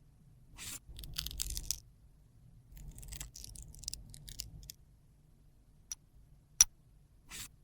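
Small handling sounds of cosmetics and tools: a few short bursts of scraping and rustling, then a single sharp click about six and a half seconds in, followed by a brief rustle.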